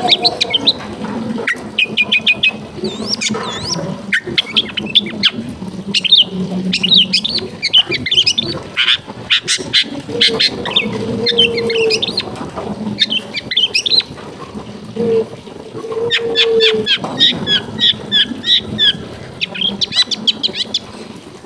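Long-tailed shrike singing: a fast, varied run of sharp chirps, rapid trills and chatter. Lower held tones come in briefly a few times in the middle.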